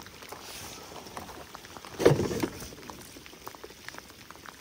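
Rain pattering on open water and on a plastic kayak, a steady hiss scattered with small drop ticks. About two seconds in there is a brief, louder thump that lasts about half a second.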